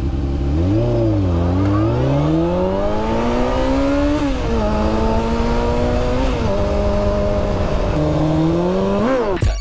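Honda CBR600F3 sport bike's inline-four engine pulling away under throttle. The revs climb, dip briefly, then rise steadily and drop at gear changes about four, six and eight seconds in, before a last climb that cuts off abruptly near the end.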